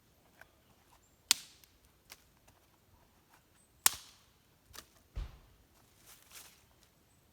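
A few sharp knocks or cracks, with two loud ones about two and a half seconds apart and fainter ticks between, then a dull low thump a little after five seconds in.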